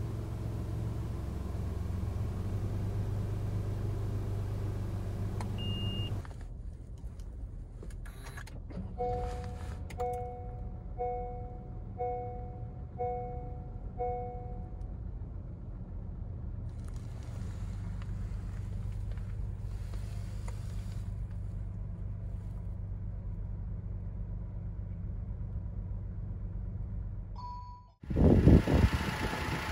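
Honda N-WGN's 660 cc three-cylinder engine idling, heard inside the cabin, is switched off about six seconds in. A two-tone dashboard warning chime then sounds six times, about once a second. Around seventeen seconds the still-warm engine is restarted and idles quietly, and near the end it is heard much louder and closer from the open engine bay.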